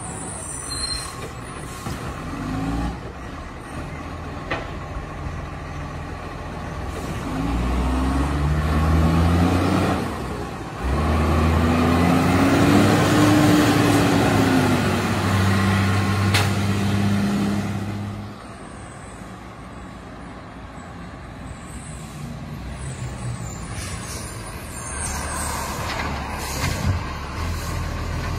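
Rubbish truck's diesel engine idling and revving up and down. The revs climb, rise and fall again, and drop back to idle about two-thirds of the way through. Short hisses of air brakes come through now and then.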